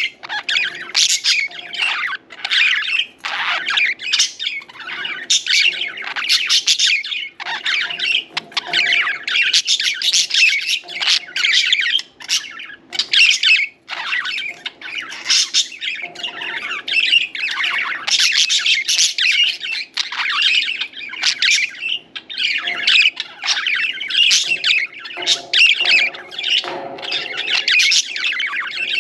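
Several budgerigars chattering and chirping continuously, a dense run of rapid warbling calls and squawks with only brief pauses.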